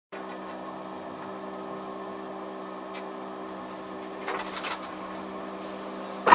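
Car engine running with a steady hum, heard inside the cabin, with a short rustle and a sharp knock at the very end.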